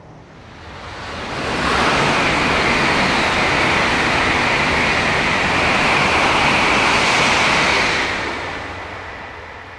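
Shinkansen bullet train passing at high speed: a rushing noise swells over about two seconds, holds loud for about six seconds, then fades away.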